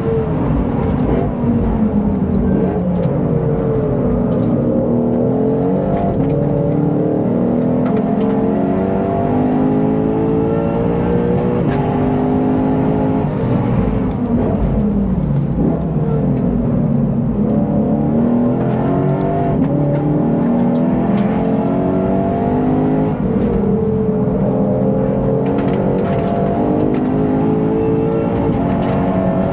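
Lexus RC F's 5.0-litre V8 at full throttle on a timed lap, its pitch climbing through the revs and dropping at shifts and under braking, several times over.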